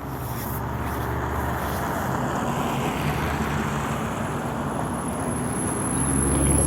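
Inside a PAZ-422320-14 Citymax 9 city bus: the engine hums steadily under road and cabin noise, growing louder near the end. A thin high whine joins about four seconds in.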